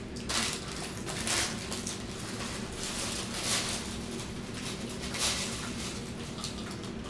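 Close-miked eating sounds: chewing with short crunches coming irregularly, about one or two a second, over a faint steady low hum.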